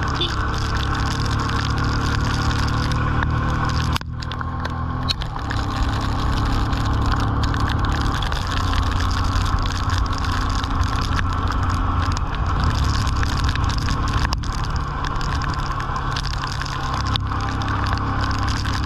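Yamaha FZ motorcycle engine running steadily while riding, its pitch shifting up and down a few times, under a constant rush of wind and rain noise. The sound briefly drops out about four seconds in.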